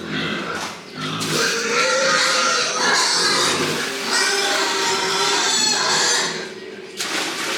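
Pigs calling without a break, several voices overlapping, briefly quieter about six and a half seconds in.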